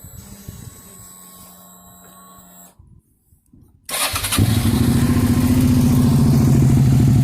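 Suzuki V-Strom DL650 V-twin engine starting about four seconds in and then running at a steady idle through a Black Widow aftermarket exhaust with the baffle removed. Before it there is a faint steady hum and a moment of near silence.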